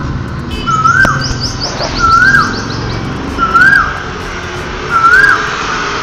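Birds calling: a whistled note that rises and then falls, repeated about every second and a half, with a fast high trill from a second bird in the first half.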